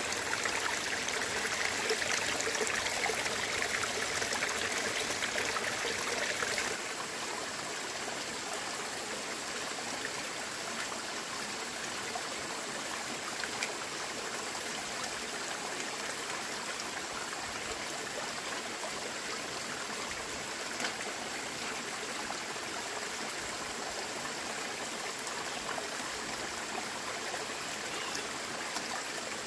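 Running water, a steady flowing and trickling sound. It drops abruptly to a slightly quieter level about seven seconds in.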